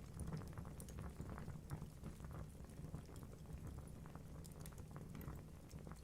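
Wood fire crackling in a fireplace: many small scattered pops and snaps from the burning logs over a low, steady rumble.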